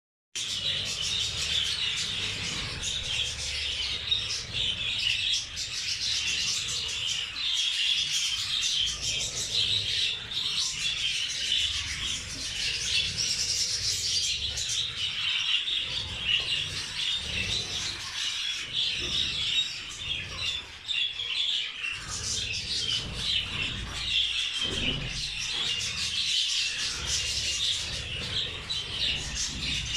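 A flock of budgerigars chattering and chirping continuously, with a low rumble underneath.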